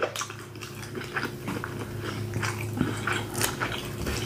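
Close-miked chewing of grilled steak: irregular wet mouth clicks and smacks, over a steady low hum.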